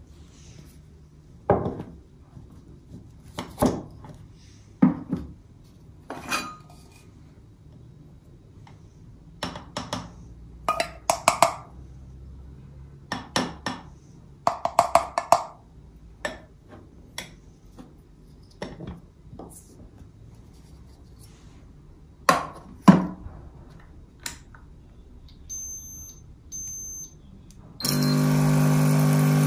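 Irregular knocks and clinks of household objects being picked up and set down, some with a short glassy ring. Near the end a loud, steady motor hum switches on and keeps running.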